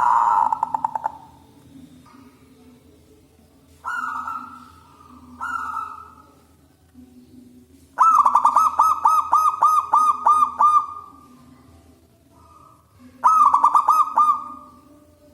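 Zebra dove (perkutut) cooing: short cooing phrases, then, about halfway through, a long run of quick staccato notes at about four a second, and another shorter run near the end. A faint steady low hum underneath.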